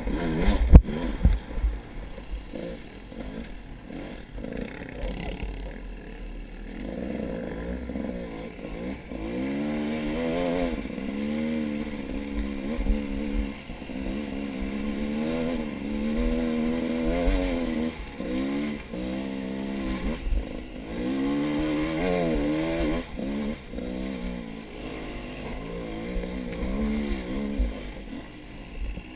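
A small vehicle engine, such as an off-road bike's, revving up and down repeatedly while being ridden, with low thumping and rumble beneath. There is a sharp knock about a second in.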